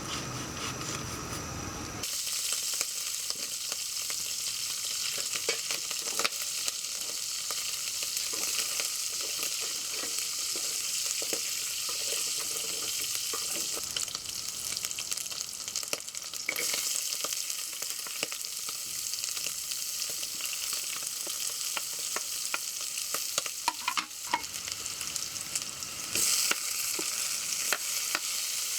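Food sizzling as it fries in a pan, with a cooking utensil knocking and scraping against the pan as it is stirred; the sizzle starts about two seconds in.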